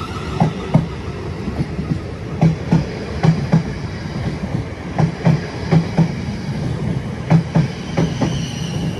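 South Western Railway electric multiple unit passing close by, its wheels clacking in pairs over the rail joints about once a second over a steady rumble.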